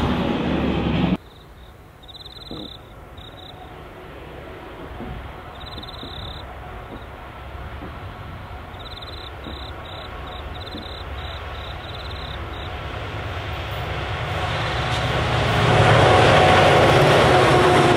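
A passing train cuts off abruptly about a second in; then a diesel-hauled freight train, led by CLF/CLP class locomotives, approaches from far off, its engines and wheels growing steadily louder until the locomotives pass close near the end.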